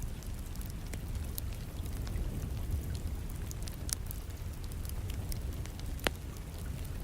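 Wood fire crackling, with scattered sharp pops and one louder pop about six seconds in, over a steady low rumble and the hiss of rain.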